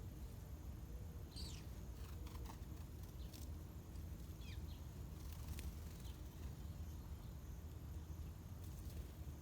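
A few faint, short bird chirps, some falling in pitch, scattered over a steady low hum.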